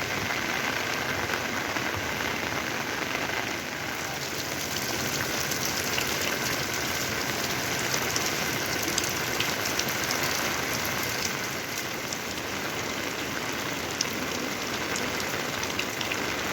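Steady heavy rain falling, with a dense patter of individual drops ticking through it.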